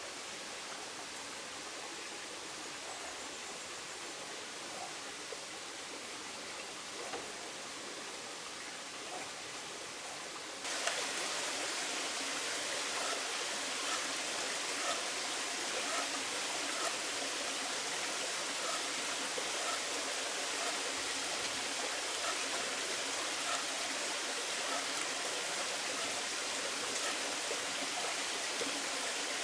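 Potatoes frying in hot oil: a steady sizzle that jumps suddenly louder about ten seconds in, then carries on with dense crackling.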